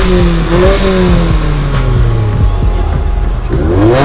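Car engine revved hard, its pitch sinking slowly as the revs fall away over about three seconds, then blipped sharply up again near the end.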